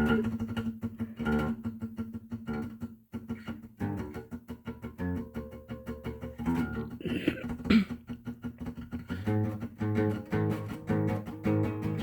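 Guitar music: plucked notes picked in a steady run, with a brief break about three seconds in.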